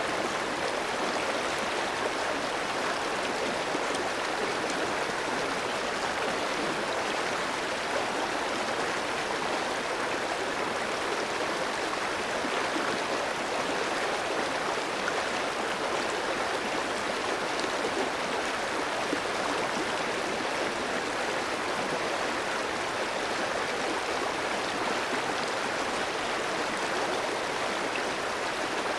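A clear mountain stream flowing over rocks: a steady, even rush of water.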